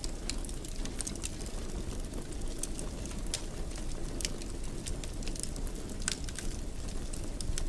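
Wood fire burning in a fireplace: a steady low rumble with irregular sharp crackles and pops from the burning wood.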